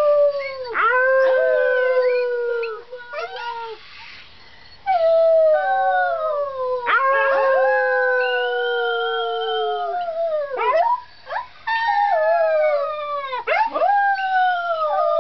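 Arctic wolf pup howling: a string of long howls, each sliding slowly down in pitch, with short breaks and quick swoops between them.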